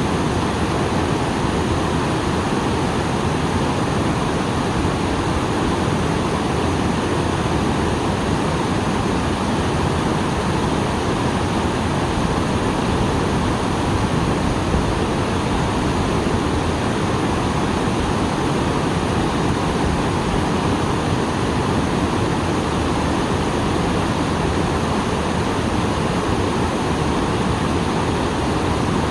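Small waterfall running full after rain: a constant, even rush of falling water with no breaks or changes.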